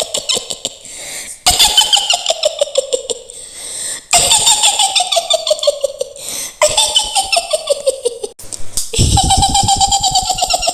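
Mak Lampir witch's cackle: a high, shrill laugh in rapid pulses that slides down in pitch, repeated about every two and a half seconds.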